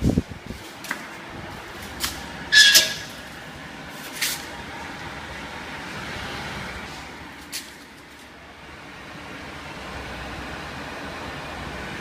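Electric fans running with a steady whir of moving air. Several sharp clicks and one louder short noise, about two and a half seconds in, break over it.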